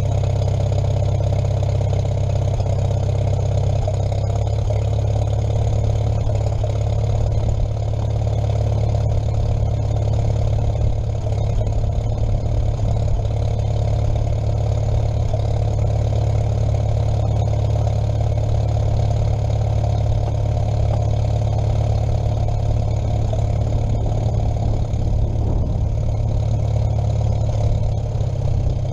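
An engine running steadily at idle, with an even low hum and no revving.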